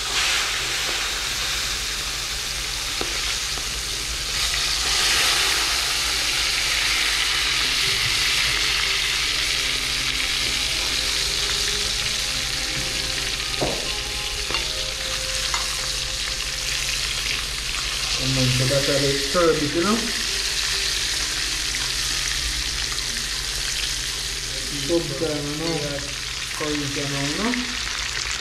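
Curry frying in hot oil in a cooking pot, a steady sizzle that swells about four seconds in. This is the 'burning' of the curry, the frying stage of a Jamaican curry.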